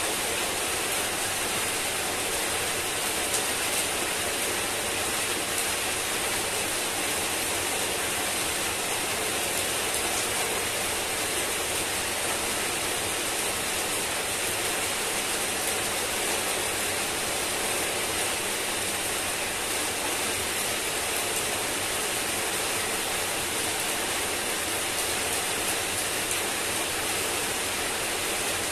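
Heavy rain falling steadily on wet pavement and leaves: an even, unbroken hiss with faint scattered drop splashes.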